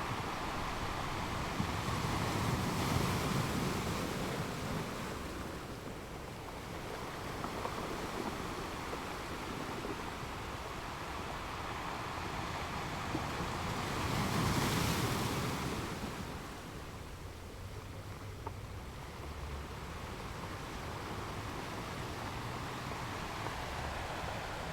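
Ocean surf: a steady wash of waves, with two bigger waves swelling and breaking, about three seconds in and again around fifteen seconds in.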